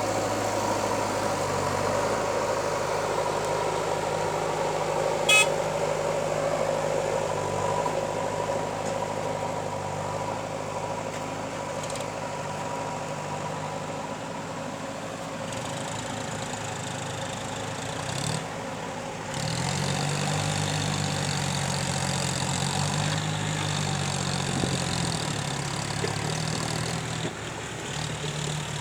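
Heavy diesel machine engine running steadily, with one sharp click about five seconds in. The engine note dips briefly around eighteen seconds, then returns with a stronger low hum.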